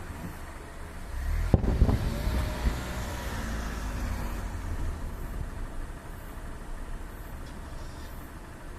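Fireworks shell bursting overhead: one sharp boom about a second and a half in, then a few smaller bangs and a rolling rumble that dies away.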